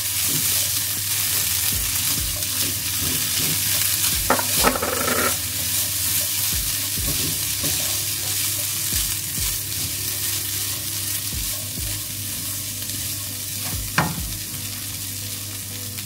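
Chickpeas with garlic and ginger sizzling in hot oil in a nonstick frying pan, stirred around with a silicone spatula; a short scraping stretch about four seconds in and a single sharp click near the end.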